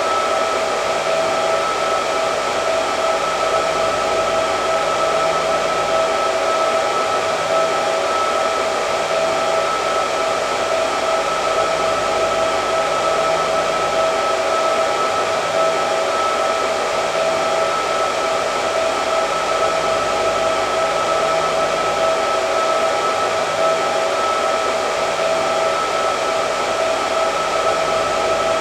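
Hair dryer running steadily: a constant rush of air with a steady whine from the motor and fan.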